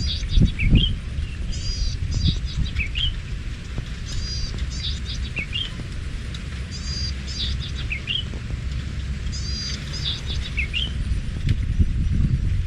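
A songbird repeating the same short phrase about every two and a half seconds: a quick run of high falling notes, then a few lower rising notes. Under it runs a steady low wind rumble on the microphone, gusting louder at the start and again near the end.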